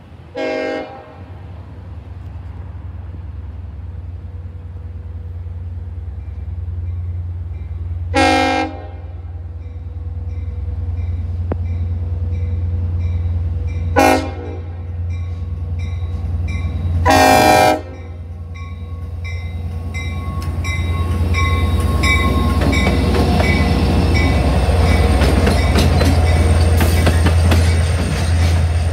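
Long Island Rail Road diesel train sounding its horn four times as it nears a grade crossing, the third blast short, while the crossing bell rings rapidly and the diesel engine's rumble grows louder. Over the last several seconds the bi-level coaches pass close by, their wheels clattering on the rails.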